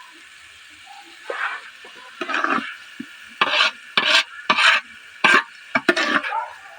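A spatula stirring rice that is frying in oil in a large cooking pot. A faint steady sizzle is heard first, then from about a second in a run of about seven short scraping strokes.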